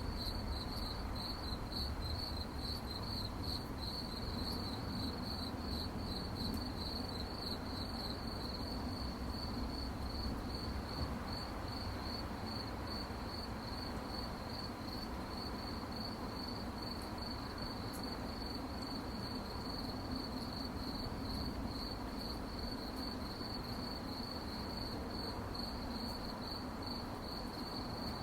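Crickets chirping in a continuous, finely pulsing high-pitched chorus over a faint low background rumble.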